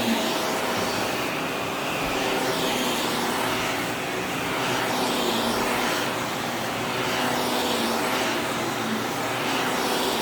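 Vacuum cleaner running steadily, its motor holding a constant hum under a broad rushing noise that swells and eases gently every couple of seconds.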